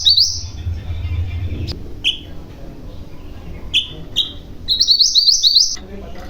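A mantenan gunung songbird singing: a few short, sharp high notes, then a long fast roll of repeated rising notes near the end.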